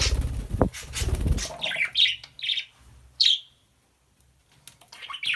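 Pet budgerigar chirping and chattering in short bursts, after a loud rustle lasting about the first second and a half.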